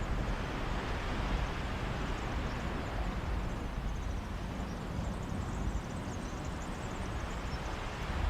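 Mediterranean sea waves washing on a beach, an even rushing wash that swells over the first few seconds and then eases, with sea breeze gusting against the microphone as a low rumble.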